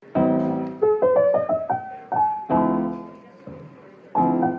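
Solo piano music: full chords struck about every two seconds, each left to ring and fade, with a short rising run of single notes after the first chord.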